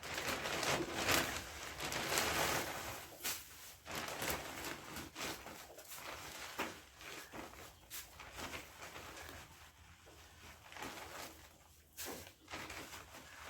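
Dry rustling and crunching with scattered light knocks, busiest in the first few seconds and thinning out toward the end.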